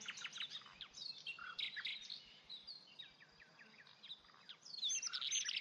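Several songbirds singing and chirping together, quick overlapping whistled notes and trills, with a louder burst of song near the end.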